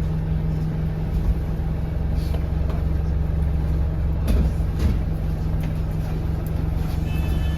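Alexander Dennis Enviro200 single-deck bus heard from inside the passenger cabin while driving: the diesel engine and road noise make a steady low drone, with a few short rattles or knocks about halfway through.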